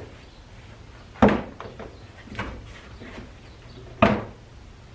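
Plastic engine cover popping off its mounting clips: two sharp snaps about three seconds apart, with a softer knock between them.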